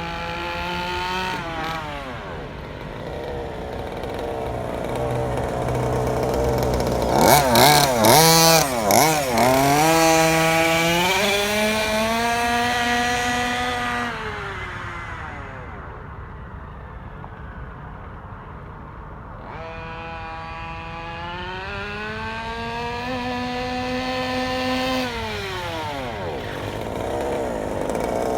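A 1/5-scale RC car's 32cc two-stroke gas engine, new and being broken in, revving up and down as the car drives around. It is loudest and revs hard with quick pitch swings about seven to nine seconds in, turns to a faint distant hum in the middle, then comes back and its pitch falls away near the end.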